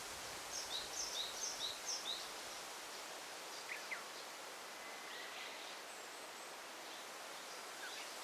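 Daytime forest ambience: a steady rustling hiss, with a bird calling a quick run of about six high two-note phrases in the first couple of seconds, then two short lower chirps about four seconds in and a few faint calls after.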